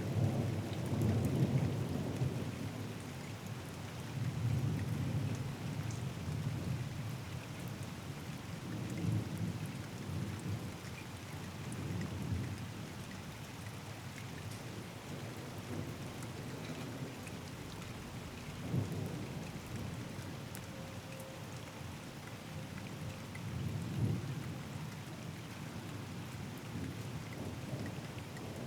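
Thunderstorm: steady rain falling, with thunder rumbling low again and again, and a sharper crack of thunder about two-thirds of the way through.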